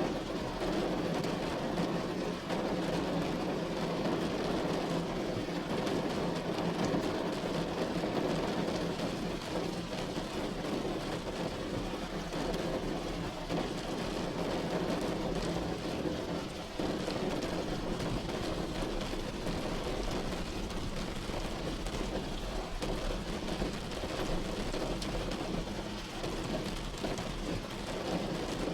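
Steady rain falling on a roof, an even unbroken rush of noise with a low hum underneath.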